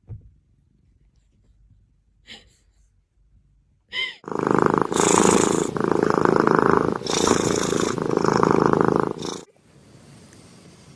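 Domestic cat purring loudly close to the microphone, in four long swelling breaths, after a short rising chirp-like call. The purring stops suddenly about a second and a half before the end.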